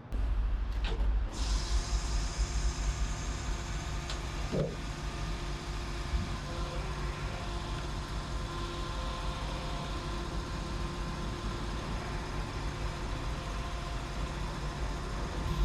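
Diesel truck engine running steadily with a low rumble.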